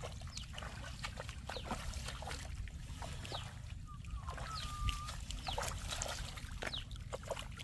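Muddy shallow water splashing and sloshing as fish are grabbed by hand, with many short, quickly falling high chirps and one brief held squeak about halfway through.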